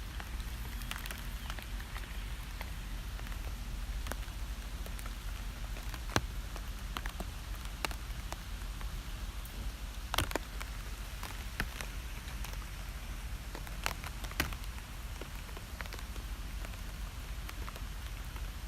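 Steady rain falling on a surface, with a constant low rumble underneath. Scattered louder drops land as sharp ticks, the clearest a little after 6 seconds, around 10 seconds and around 14 seconds in.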